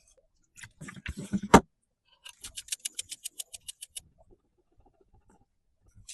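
Food-preparation handling sounds: a few knocks and clatters, the loudest about a second and a half in, then a quick, even run of about a dozen light ticks for nearly two seconds.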